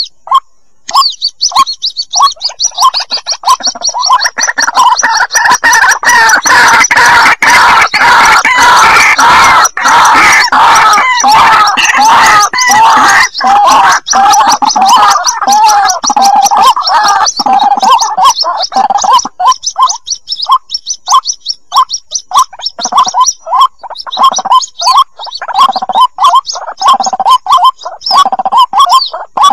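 White-breasted waterhen chicks calling: rapid, repeated short calls that pile up thickly through the middle and thin out to separate, evenly repeated calls near the end.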